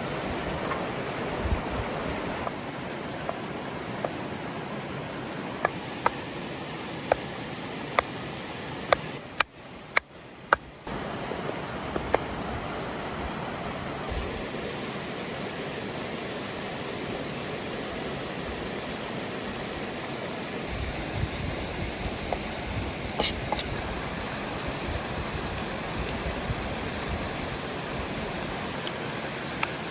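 Sausages frying over a campfire: a steady sizzling hiss with scattered sharp pops and crackles. The sizzle drops away briefly about ten seconds in.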